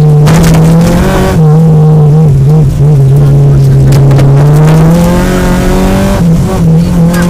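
Peugeot 205 GTI rally car's four-cylinder engine running hard, heard from inside the cabin. Its note falls and rises as it is driven through the bends, with brief dips about a second in and again about six seconds in.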